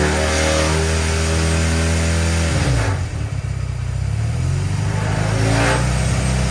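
The street-bike engine swapped into the go-kart is running and revving. Its revs fall off about two and a half seconds in, then climb back up.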